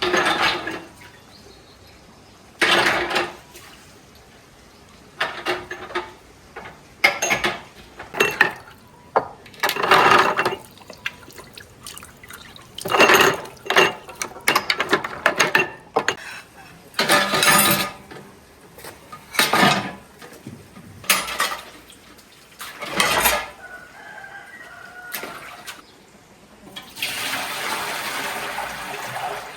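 Water splashing and pouring in short irregular bursts, about a dozen of them, then a steadier run of water for a couple of seconds near the end.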